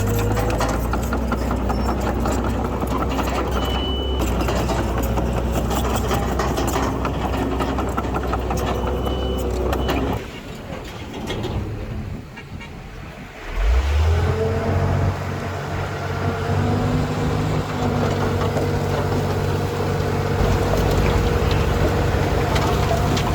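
Heavy earthmoving machinery's diesel engines running steadily. Brief high squeaks come about four and nine seconds in. The sound drops away about ten seconds in and comes back loud, all at once, a few seconds later.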